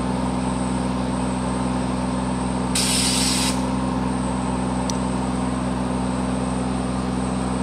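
Engine running steadily with a constant low drone, with a short sharp hiss about three seconds in and a faint click a couple of seconds later.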